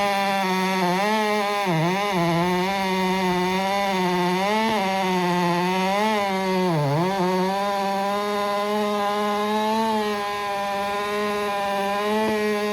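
Chainsaw running at full throttle and cutting through wood; its engine note sags briefly under load three times, about two, five and seven seconds in, then holds steady at high revs.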